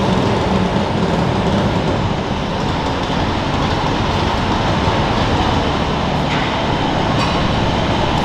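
Diesel garden tractor engine running loud and steady, pulling under load.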